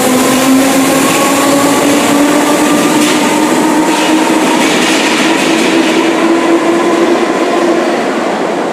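Merseyrail electric train pulling away: the traction motors give a whine that rises steadily in pitch as it gathers speed, over loud wheel and rail noise.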